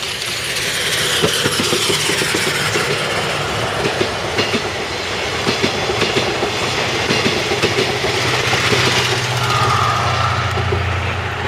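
A steam-hauled passenger train, C58 363 with series 12 coaches, rolling past with its wheels clacking over the rail joints. A steady low hum joins in about eight seconds in.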